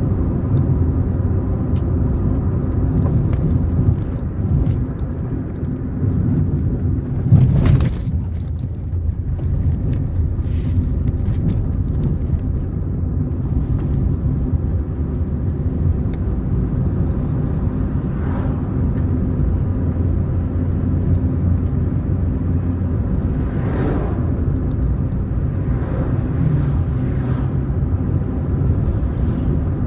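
A car driving on a road: a steady low rumble of engine and tyres, with one louder sudden knock about seven and a half seconds in and a few fainter ones later.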